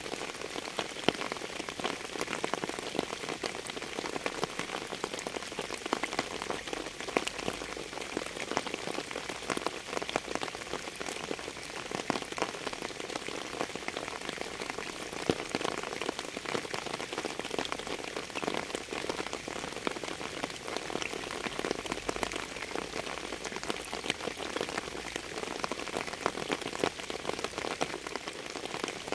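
Steady, dense rainfall striking a surface, with many individual drop hits heard through the even hiss of the rain.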